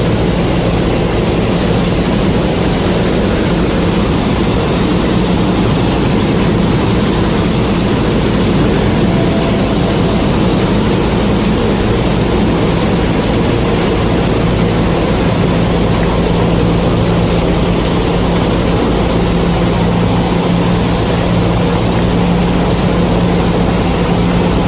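Combine harvester running steadily while harvesting corn: a continuous loud engine and machinery drone with a steady low hum that does not change.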